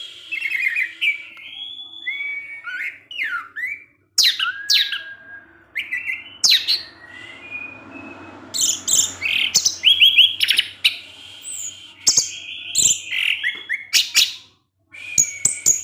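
Orange-headed thrush singing a rapid, varied song of clear whistles, sharp chip notes and rising and falling slurs, broken by a brief pause about four seconds in and another near the end.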